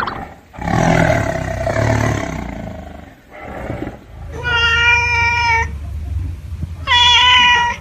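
A deep, rough animal roar or growl, followed by two drawn-out, steady, high-pitched animal calls, the second shorter than the first.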